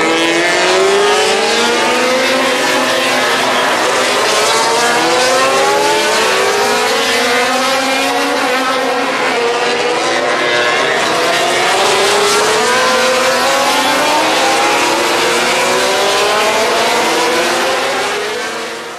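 Several 800cc four-stroke MotoGP racing motorcycles accelerating, their engines rising in pitch through a series of upshifts and overlapping one another. The sound fades out near the end.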